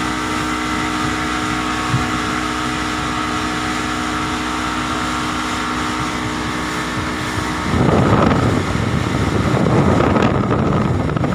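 Motorboat engine running at a steady pitch with wind on the microphone; about eight seconds in, a louder rush of wind and water takes over and covers the engine's hum.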